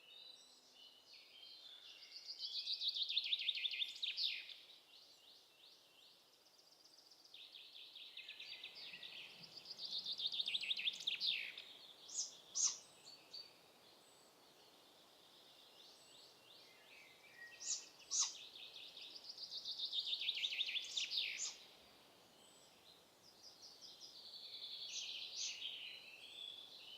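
A small songbird singing a fast, descending trilled phrase about three seconds long, four times over with pauses of several seconds between, and a few sharp single notes in the gaps.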